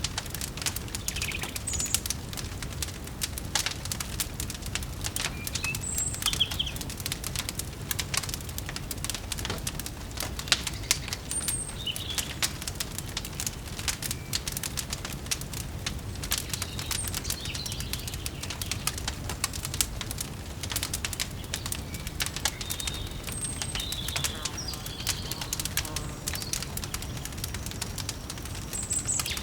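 Wood fire crackling in a fireplace, with many small irregular pops over a steady low rumble. Brief bird chirps come now and then.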